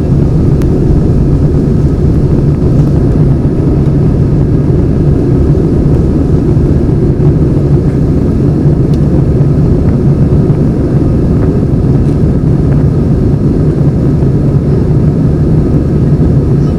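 Airbus A320 in flight heard from inside the passenger cabin: a loud, steady drone of the jet engines and rushing air, heaviest in the low end, unchanging throughout.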